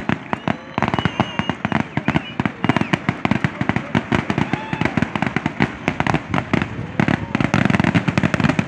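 Fireworks finale barrage: aerial shells bursting in rapid, overlapping bangs, many a second, without a break.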